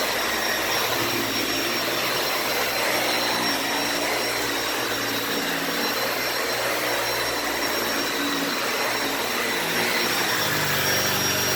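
Dyson Ball Animal 2 upright vacuum cleaner running steadily, a constant rush of air with a high motor whine over it.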